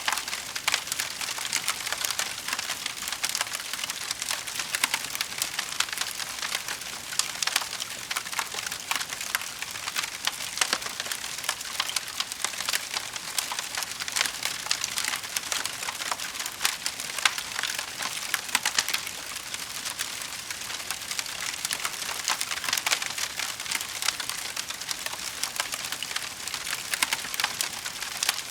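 Wood fire crackling steadily in a fireplace: a dense run of small sharp pops and snaps over a soft hiss, with no lull.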